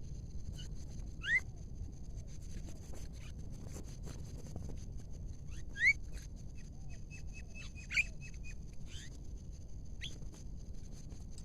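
Bird calls: short sharp rising whistles, about one every few seconds, with a quick rattling run of notes about eight seconds in, over a steady high-pitched drone and a low rumble.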